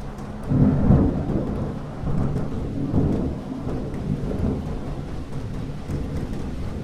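Thunder rumbling over steady rain. The deep rumble swells sharply about half a second in and rolls on in several waves, easing off toward the end, while the rain hisses underneath with scattered drop ticks.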